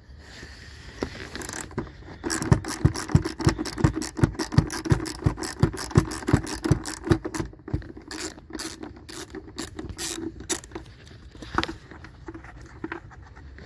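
Ratchet wrench clicking as it turns out a 13 mm seat-mounting bolt: a steady run of sharp clicks, about three a second, for several seconds, then slower, irregular clicks.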